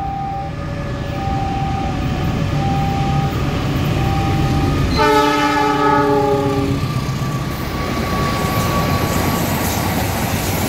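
Diesel locomotive passing with a steady low rumble of engine and wheels. Its multi-note chord horn sounds once, loud, for nearly two seconds about five seconds in. Before the horn, a two-note tone repeats, alternating higher and lower notes.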